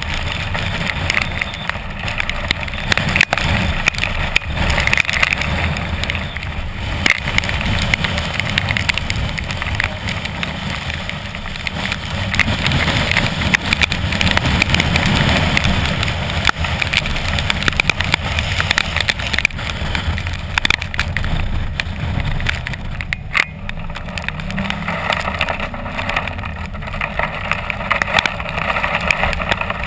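Strong thunderstorm wind buffeting the microphone, a continuous rushing noise with a gusting low rumble.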